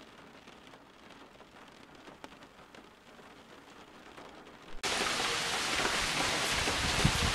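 Rain: a soft, light patter with scattered drop ticks, which cuts abruptly about two-thirds of the way through to a much louder, steady hiss of rain.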